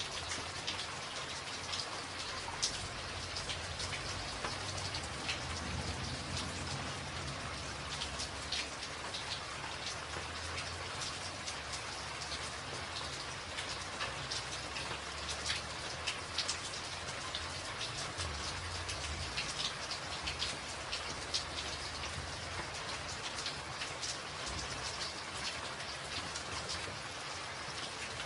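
Steady rain drumming on a tin roof, a dense patter with many sharp individual drop ticks, over a low rumble that comes and goes.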